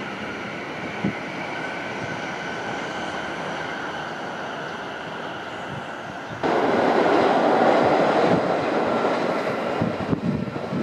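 A Shinkansen train passing at speed on the viaduct: a steady rushing noise with a faint whine. About six seconds in it jumps suddenly to a louder, closer rush that then fades, with gusts of wind on the microphone near the end.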